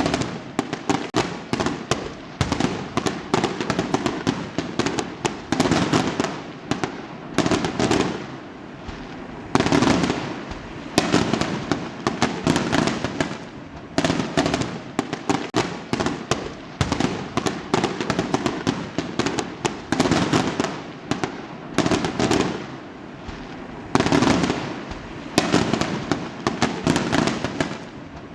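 Fireworks going off: a dense, continuous barrage of bangs and crackling, in rapid clusters of reports with short lulls between them.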